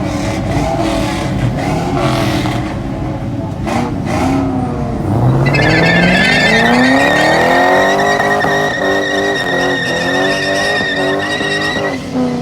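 Car engine revving hard in a burnout, its pitch climbing steeply about four and a half seconds in and then held high, with the tyres squealing steadily from about five and a half seconds in.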